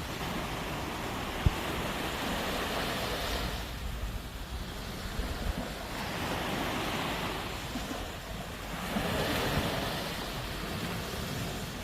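Sea waves breaking and washing ashore, the surf swelling and fading three times, with wind rumbling low on the microphone and a brief thump about a second and a half in.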